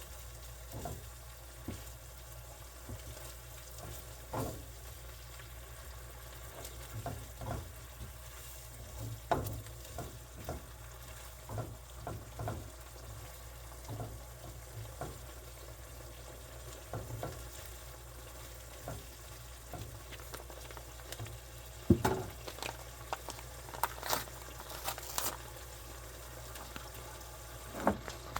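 Food frying in a pan on a stove, a faint steady sizzle under scattered clicks and scrapes of a utensil stirring it. A sharp knock on the pan about two thirds of the way through is the loudest sound, followed by a few more clatters.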